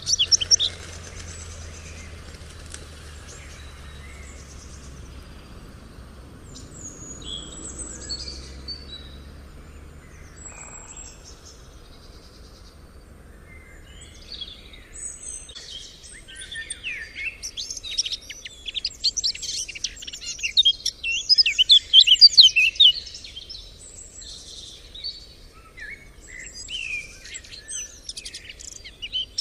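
Several songbirds chirping and singing. The calls are scattered at first, then build into a dense, loud stretch of song about halfway through, which thins out again near the end. A faint low rumble lies underneath during the first third.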